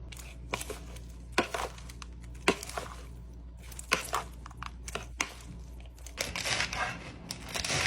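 Kitchen food-preparation sounds: scattered sharp knocks and clicks, then a denser crinkling, crunching rustle during the last two seconds.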